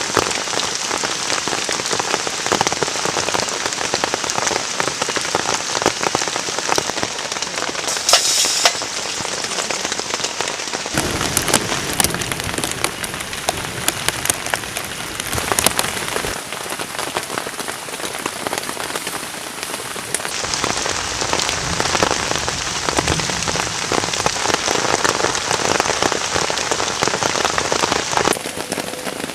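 Heavy rain falling on a camp shelter, a dense steady hiss full of individual drop hits, swelling fuller for a few seconds around the middle.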